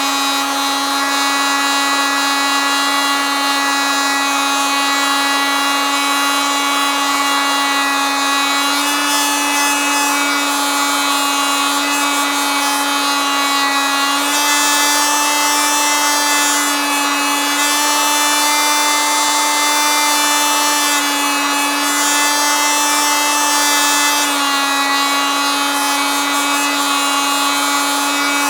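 Oscillating multitool running continuously with a steady buzzing whine. Its pitch steps slightly higher around the middle and settles back down near the end.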